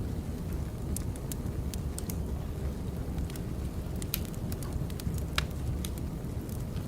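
Wood fire burning: a steady low rumble with scattered sharp crackles and pops, the strongest about four and five and a half seconds in.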